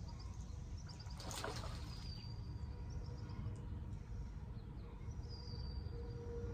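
A bird calling twice with short high chirps, about two seconds in and again near the end, over a steady low rumble. A brief rush of noise comes about a second in.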